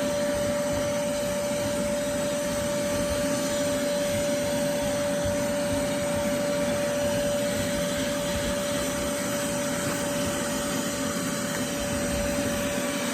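Shop vacuum running steadily with a constant whine, sucking debris from car carpet.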